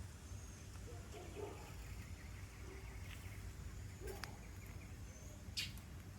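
Outdoor garden ambience: a few faint, short high bird chirps over a low steady rumble, with a brief sharp click a little after four seconds in and a crackle near the end.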